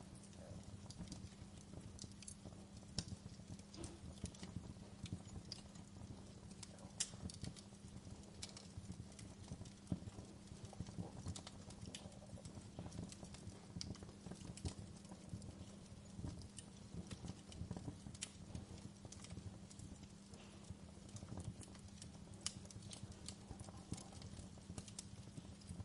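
Wood fire in a fireplace crackling, with irregular sharp pops and snaps of burning logs over a steady low rumble of flames.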